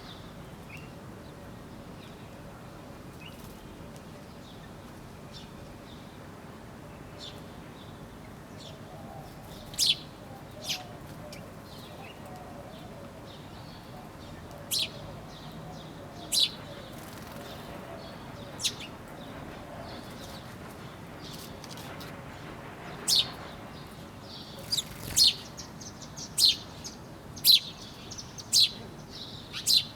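Birds chirping: scattered short, sharp high chirps, then a run of chirps about one a second near the end, over a faint steady background hum.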